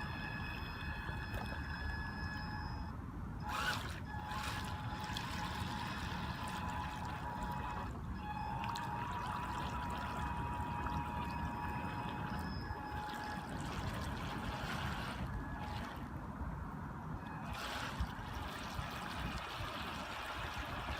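Whine of a small RC truck's 390 brushed electric motor over a steady rush of churning water. The whine fades out about three seconds in, then comes back rising in pitch about eight seconds in and holds for several seconds before dropping away.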